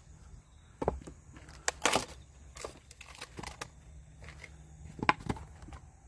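Firewood being worked: an irregular series of sharp wooden knocks and cracks, with a crackling cluster about two seconds in and the loudest knock about five seconds in.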